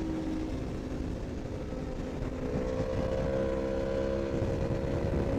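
Superbike engine running at speed over rushing wind noise. The engine note holds steady, then climbs to a higher pitch about two and a half seconds in and stays there.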